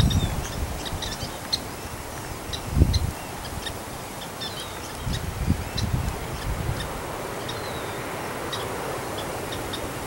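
Many short, high bird chirps with a few quick twittering notes, scattered throughout. Under them, gusts of wind rumble on the microphone, strongest at the start, about three seconds in, and again around five to seven seconds in.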